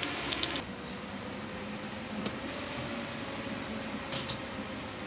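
Steady indoor background hum, like ventilation, with a faint steady tone and a few light clicks and taps.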